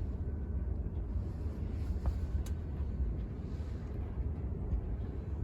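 Steady low rumble of outdoor background noise, wind on the microphone or distant traffic, with a couple of faint clicks about two seconds in.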